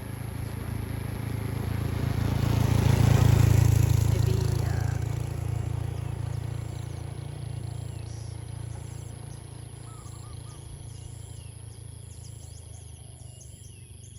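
A rushing noise swells to a peak about three seconds in and then slowly fades. Birds chirp faintly in the background, more clearly near the end.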